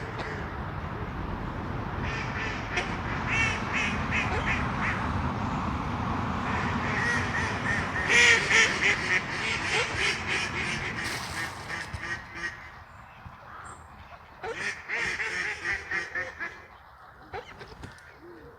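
Ducks quacking in repeated runs of short calls, loudest about halfway through, over a steady low rumble that fades out about two-thirds of the way in.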